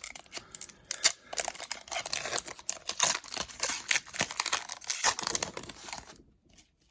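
A hockey card pack's wrapper being torn open and crinkled: dense rustling with sharp crackles that stops about six seconds in.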